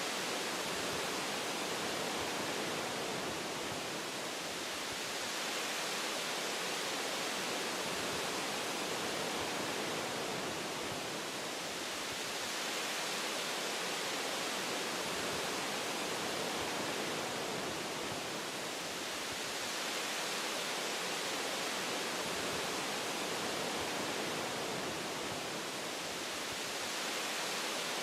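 Steady rushing hiss of wind through forest tree branches, blended with white noise, swelling and easing gently about every seven seconds.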